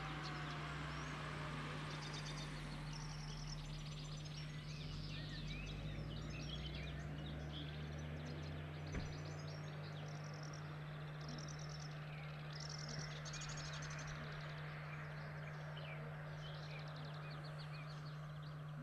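Several songbirds singing, a running mix of short chirps and trills, over a steady low hum.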